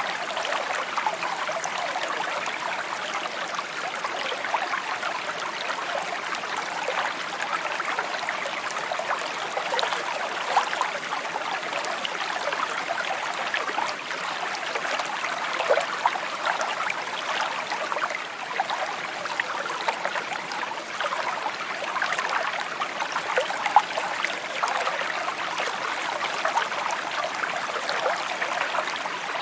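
Small stream trickling and babbling over stones, a steady bright flow of water with small splashes and gurgles throughout.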